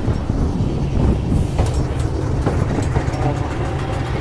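Heritage train moving, heard from the end of a carriage coupled behind an English Electric diesel locomotive: a steady low rumble with a few sharp clicks from the wheels on the rails.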